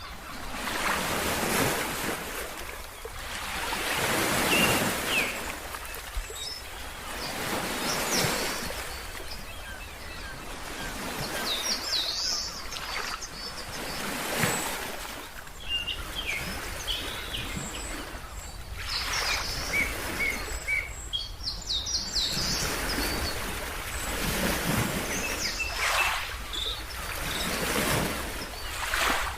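Ocean waves breaking and washing in, swelling and fading every few seconds, with birds chirping in short high calls over the surf.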